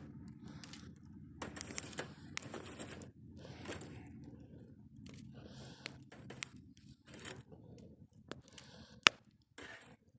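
Wood fire crackling, with scraping and light clicking as charred wood that crumbles apart is shifted in the embers. One sharp crack about nine seconds in.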